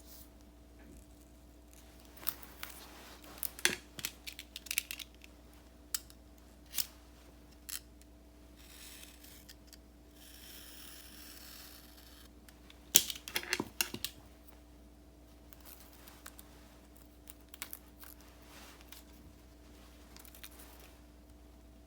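Paper and stickers being handled for journal decorating: scattered light taps and clicks in two small flurries, with a soft rustle of about two seconds in the middle.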